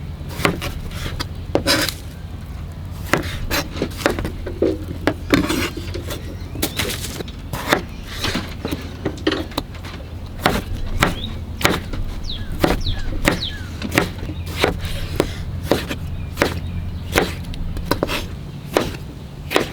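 Knife chopping on a wooden cutting board in irregular strokes, about one or two a second, over a steady low hum.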